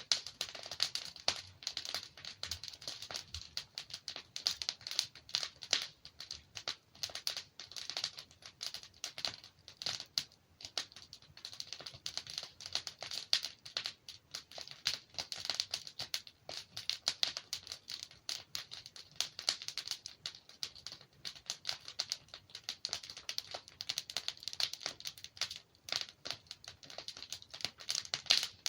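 Wood fire burning in a fireplace: logs crackling with a dense run of small irregular snaps and pops.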